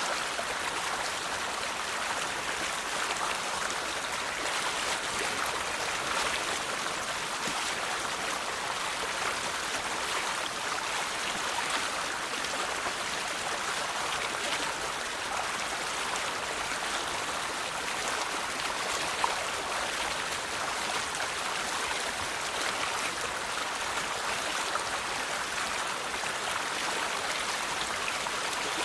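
River water flowing over rocks: a steady rushing and babbling, with one brief louder splash about 19 seconds in.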